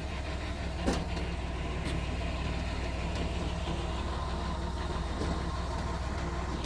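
Mitsubishi bulldozer's diesel engine running steadily at low revs, with a single sharp metallic knock about a second in.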